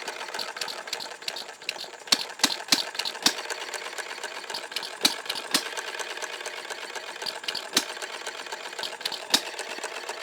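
Red Wing model hit-and-miss engine running: a fast, steady mechanical clatter broken by sharp pops at uneven intervals as it fires only now and then and coasts between firings.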